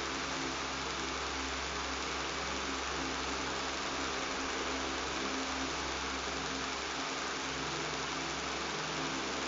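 Electric fan running steadily: an even rushing hiss with a low motor buzz underneath, unchanging throughout.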